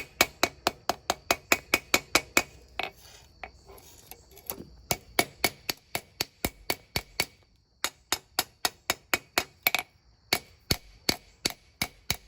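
Hand hammer striking hot steel on an anvil in quick, even runs of about four blows a second, with short pauses between runs: shaping the heel of a small knife blade forged from spring steel.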